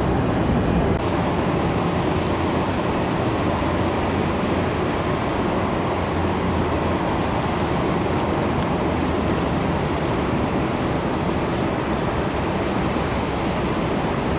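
Jet airliner engines running, a steady low rumble with a hiss above it.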